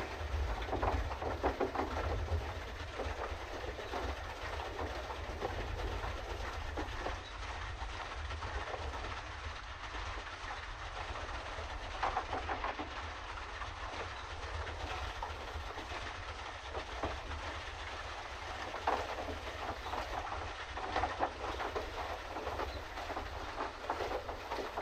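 Pedal boat under way on a canal: a steady low rumble with a continuous irregular clatter from the pedal-driven paddle wheel churning the water.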